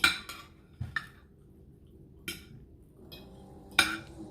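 Utensils clinking against a plate or food container: a handful of sharp, separate clicks, the loudest right at the start and another about four seconds in.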